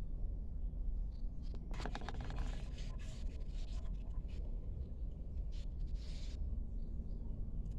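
Scattered light scraping and tapping from hands handling things, over a steady low rumble.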